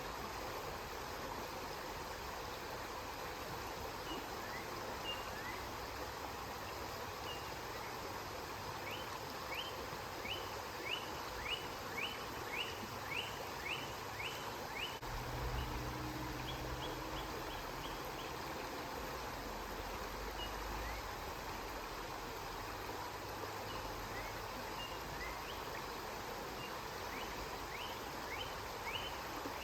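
Flowing river water, a steady rush. A small bird chirps now and then and sings a quick run of about a dozen short notes around the middle, and a low rumble comes in briefly just past halfway.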